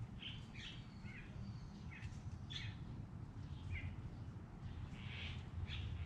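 Wild birds giving a string of short chirps, about eight scattered through, over a low steady rumble.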